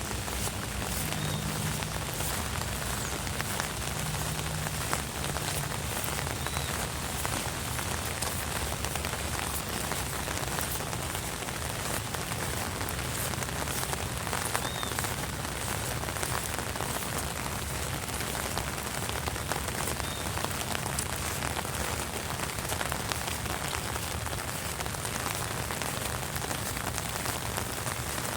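Steady rain falling, an even hiss with many separate drop impacts ticking through it.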